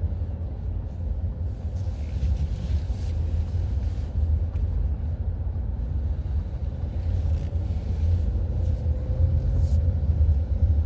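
Steady low rumble of a running road vehicle, with a faint, even hum that drifts slightly in pitch.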